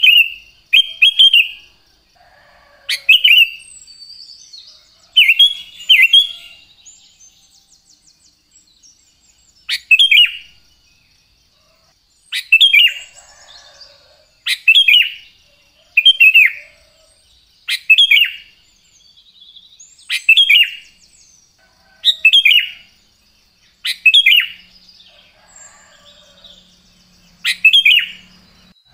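Sooty-headed bulbul giving short, loud chirping phrases, one about every two seconds, each a quick burst of falling notes.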